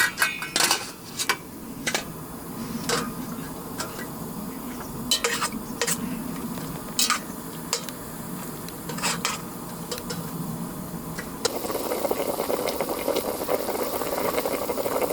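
Tongs or a utensil tapping and clinking against a pot while bok choy blanches in hot water, a dozen or so scattered sharp knocks over a steady cooking noise that gets louder near the end.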